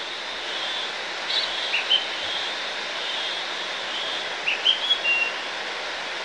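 Recorded bird chirps and short whistles, in two brief clusters a few seconds apart, over a steady rushing hiss: a looped nature sound effect.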